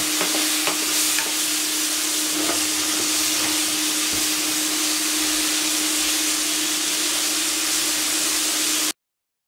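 Sliced mushrooms sizzling in oil in a nonstick pan, nearly done and starting to brown, stirred with a wooden spoon, with a few light taps and a steady hum beneath. The sound cuts off abruptly near the end.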